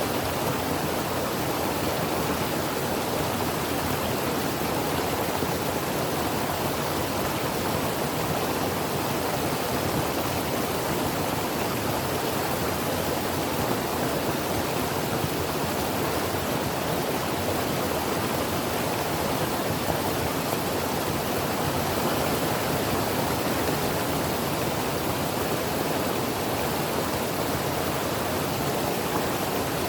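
Creek water flowing over rocks: a steady, even rush with no breaks.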